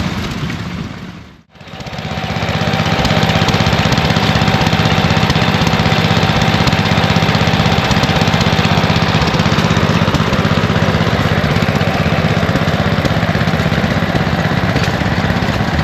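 Engine running steadily, with a steady hum and a thin tone over it for the first half. The sound fades out briefly about a second and a half in, then comes back at an even level.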